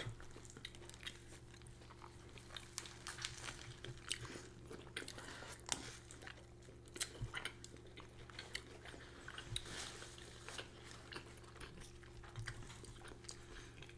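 Close-up mouth sounds of people chewing and biting food: irregular small wet clicks and smacks, over a faint steady low hum.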